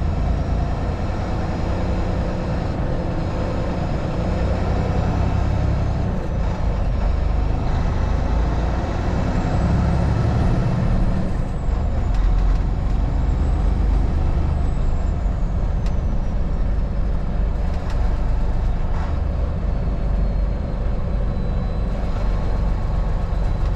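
Steady engine and road noise of a vehicle driving, a constant low rumble with no sudden events.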